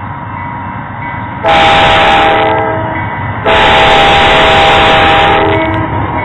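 Diesel locomotive air horn sounding a chord of several tones in two blasts, a shorter one about a second and a half in and a longer one about two seconds later, over the steady noise of the train on the rails.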